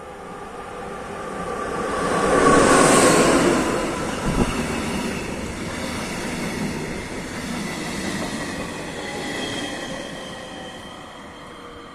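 Electric-hauled passenger train passing along the platform. The rush of the locomotive swells to its loudest about three seconds in, with a sharp knock just after. The coaches' wheels then roll by with thin squealing tones and fade near the end.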